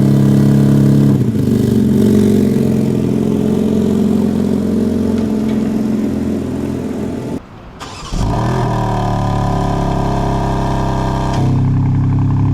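BMW M Competition car engine running at a steady idle. About seven and a half seconds in the sound drops out briefly, then picks up again as a steady engine note with a higher pitch, falling back to a deeper note near the end.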